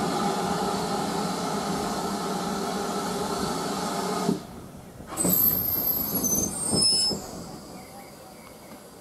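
Passenger train running, heard from a carriage window: a loud steady noise with a held tone that cuts off suddenly about four seconds in. From about five to seven seconds in come a few short high squeals that fall in pitch, and then the sound is quieter.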